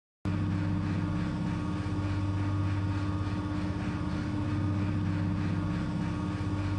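Steady, unchanging machine hum with a low drone and a faint hiss. It starts abruptly just after a moment of dead silence.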